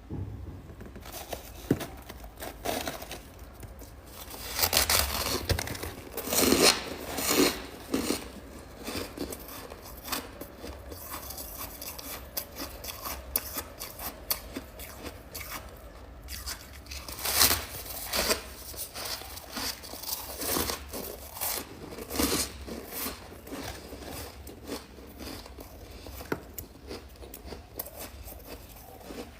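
Thick freezer frost being scraped and broken off in chunks: irregular crunching and scraping strokes, with louder crunches at several points.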